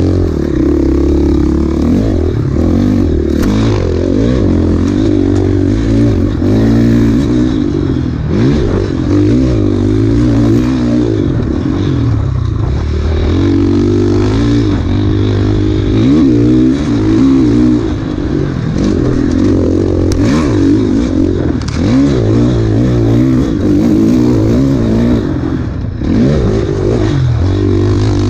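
Dirt bike engine ridden hard off-road, its revs rising and falling constantly, with a few sharp knocks from the bike over rough ground.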